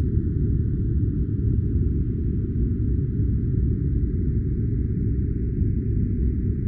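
Steady deep rumbling noise, like a white-noise track filtered to its low end, unchanging throughout.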